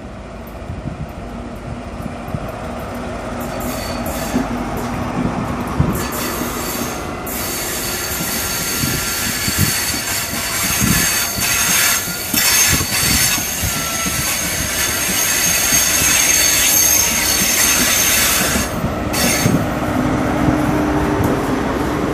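A GWR High Speed Train with Class 43 diesel power cars rolling slowly through curved pointwork. Its wheels knock and clatter over the rail joints and crossings, and from about six seconds in a high-pitched wheel flange squeal from the curve rises over them. The squeal lasts until near the end as the coaches pass close.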